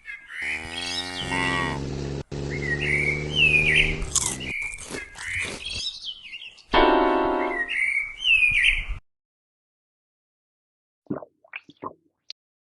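Musical clock playing a melody mixed with recorded birdsong chirps, cutting off abruptly about nine seconds in, followed by a few faint clicks.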